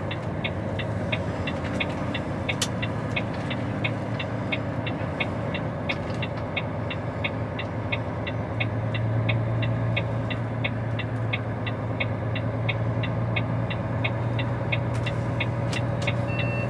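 Turn-signal indicator ticking steadily, about two to three clicks a second, inside a Volvo lorry cab over the drone of its diesel engine. The engine note grows stronger about halfway through.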